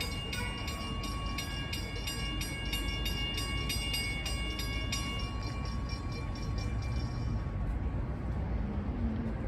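A passing train: its wheels click evenly over the rail joints, about three times a second, with a low rumble and steady high-pitched wheel squeal. The clicks and squeal fade out about three-quarters of the way through, leaving the rumble.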